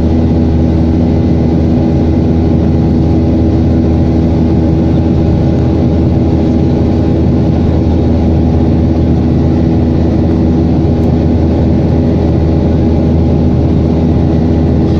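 Steady drone of an airliner's jet engines and rushing air heard inside the cabin during the climb after takeoff: a deep rumble with a few steady humming tones, unchanging throughout.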